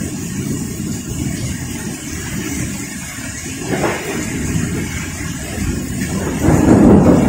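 Heavy rain in a windy thunderstorm: a steady hiss of rain over a deep, gusting rumble that swells louder about six and a half seconds in.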